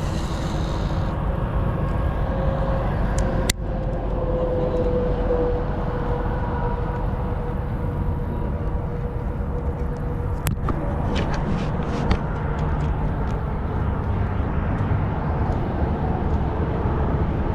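Steady low outdoor rumble, with a faint steady tone that dips slightly in pitch a few seconds in and a couple of sharp clicks.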